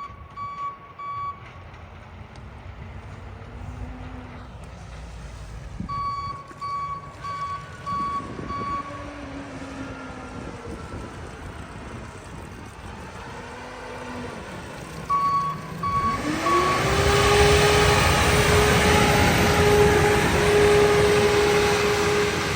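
Railway maintenance-of-way machines travelling along the track, a warning alarm beeping in three short runs of a few beeps each. From about 16 seconds in a louder machine comes by, a steady whining tone rising briefly in pitch then holding over its engine rumble.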